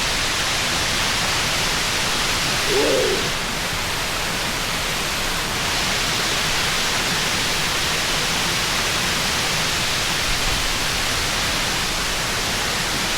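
Waterfall rushing steadily, an even wash of falling-water noise, with one brief short call about three seconds in.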